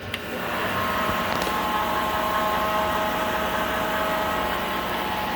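Miltronics ML15 CNC lathe spindle starting up: a whine rises over the first second, then runs steadily at speed with a motor hum.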